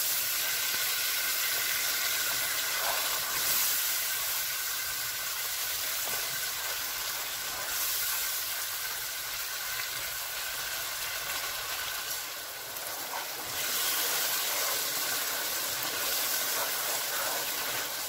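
Onion-tomato curry masala sizzling with a steady hiss in oil and a little water in a frying pan while it is stirred with a spatula, the masala being fried down (bhuna) until it is cooked through.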